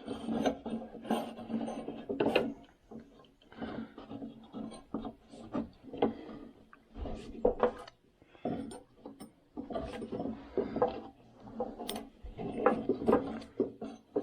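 Riding mower deck parts being handled and fitted by hand: irregular knocks and clicks mixed with scraping and rubbing.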